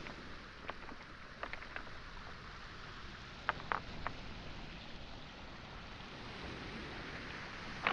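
Waves washing onto a pebble shore as a steady wash, with sharp clacks of pebbles and stones knocking together underfoot in a few small clusters, the loudest near the end.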